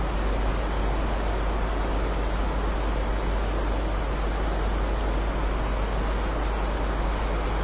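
Heavy rain falling steadily, an even hiss with no single drops or thunder standing out, over a constant low rumble.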